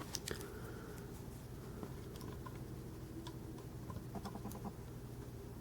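Faint scattered clicks and taps of hands handling a small diecast model truck, with a quick run of tiny clicks about four seconds in.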